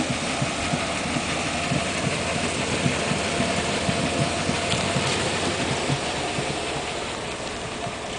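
A damaged car's engine running as the car is driven slowly on a bare wheel rim, a steady rough noise with rapid irregular knocking underneath, easing off a little near the end.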